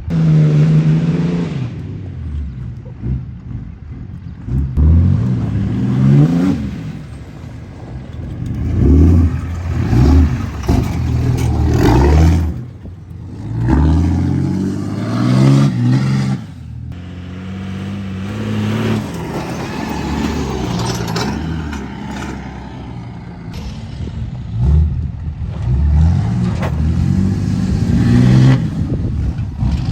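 Cummins 6.7-litre inline-six turbo-diesel pickup engine revving up and dropping back over and over as the truck is driven hard over dirt jumps.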